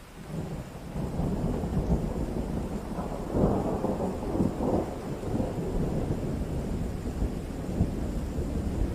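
Rolling thunder over steady rain. The low rumble swells in just after the start, peaks about three and a half seconds in, and keeps rolling.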